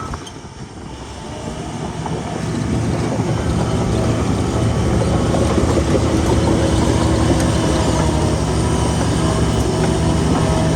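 Heavy diesel earthmoving machinery running with a steady low engine hum. It dips for about a second at the start, then grows louder over the next few seconds and holds steady.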